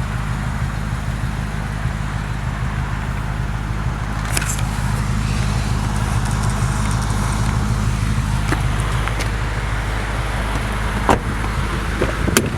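Audi S4's 4.2-litre V8 idling steadily through a catless aftermarket exhaust, a low, even hum, with a few scattered clicks and knocks, the sharpest near the end.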